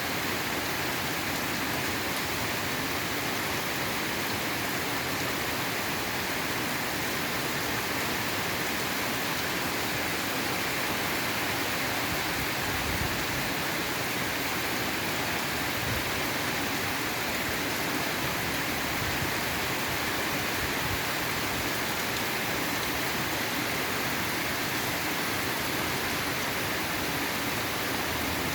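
Steady rainfall, an even hiss of rain that does not let up, with a couple of brief low thuds near the middle.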